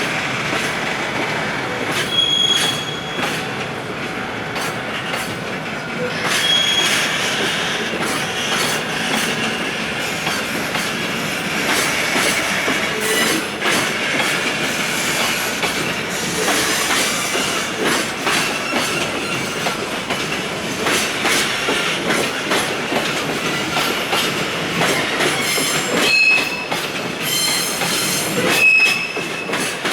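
Freight train of container wagons rolling past as it pulls out of the station, its wheels clicking over the rail joints. A few short high wheel squeals come about two seconds in, about six seconds in, and twice near the end.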